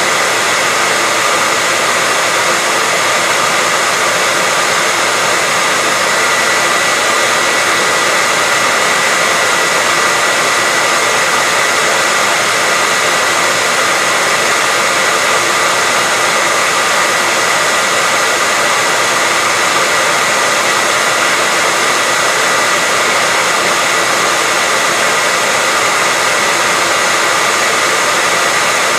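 Electric hair dryer running steadily: an even rush of air with a constant motor whine on top.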